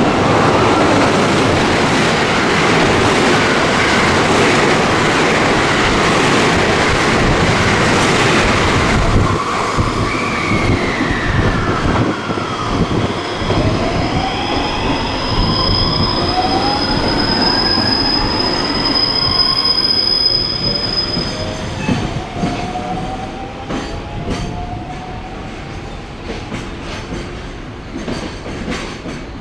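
An electric train passing through at speed, a loud rush of wheel and running noise for about the first nine seconds. After that comes a whine from the electric traction motors, gliding down and then up in pitch, with a high steady squeal in the middle, and the train fades toward the end.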